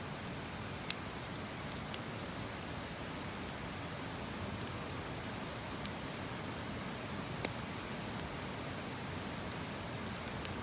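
Wood campfire crackling: a steady hiss with a few sharp, scattered pops.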